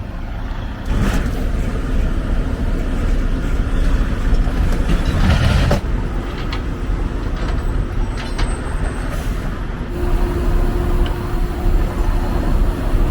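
Semi-truck running with a steady low engine rumble and road noise. It grows louder about a second in and swells again around five seconds in.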